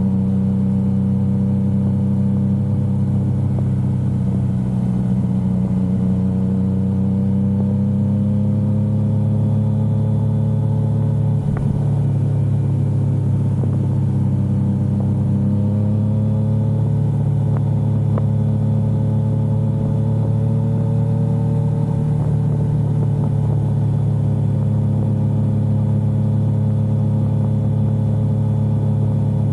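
Yamaha XSR900's inline three-cylinder engine running steadily while riding, its pitch drifting gently up and down with small throttle changes, with a faint tick about twelve seconds in.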